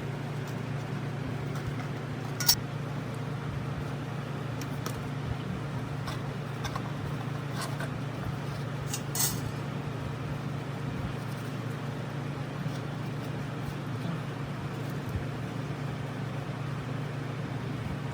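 A steady low hum with scattered light clinks and taps of small hard objects, metal or glass. The sharpest clink comes about two and a half seconds in, another near nine seconds.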